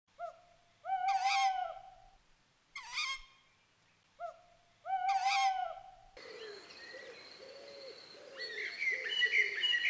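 A bird call sounds three times, the first and last calls long and the middle one short. After that comes a steady chorus of many small birds chirping.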